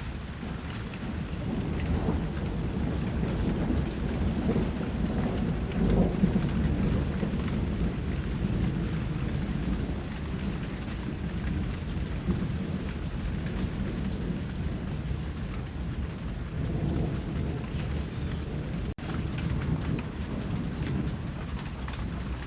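Steady rain falling, with low rumbling swells about six seconds in and again near the end, and a momentary drop-out a few seconds before the end.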